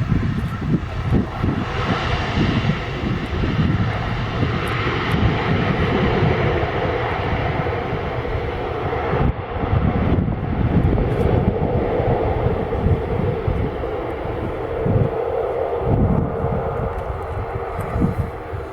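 Airliner engines running, a loud steady drone with a heavy low rumble that swells and dips.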